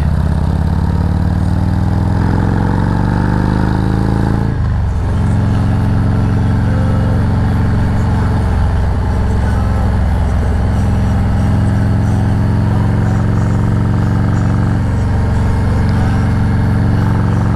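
Harley-Davidson Road Glide Special's V-twin engine accelerating, its pitch rising for the first four seconds or so, dropping at a gear change, then running steadily at cruising speed.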